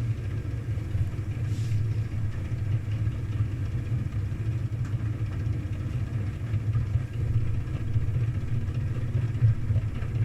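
Washing machine running with a steady low hum and rumble.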